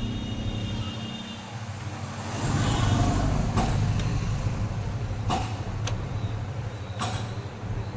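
A steady low engine hum from a running vehicle, with a few sharp metallic clicks of tools on metal, about four over the second half.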